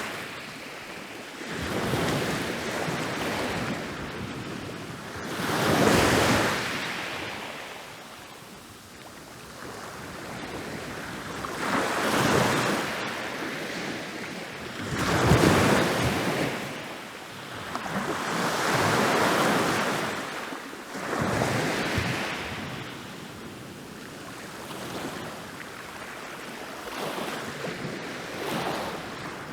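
Ocean waves rolling in and breaking on a beach, one after another every few seconds. Each wave swells up as a wash of surf and fades away; the loudest breaks come about six seconds in and around the middle.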